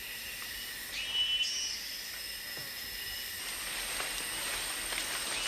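Tropical rainforest insects droning: several steady high-pitched buzzes and whines layered together, with a short chirring trill about a second in and a hiss that grows louder in the second half.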